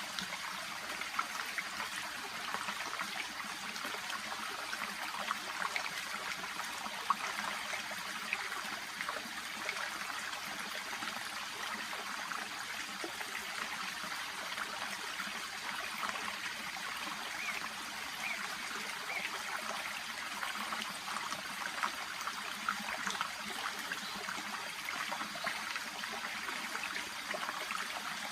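Shallow brook babbling steadily over stones, a continuous trickle with many small splashes and gurgles.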